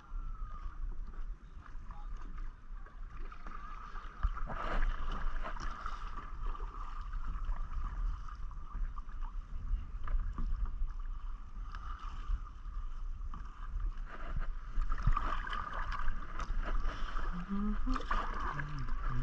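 Kayak paddle strokes dipping into and splashing the water every few seconds, over a steady low rumble.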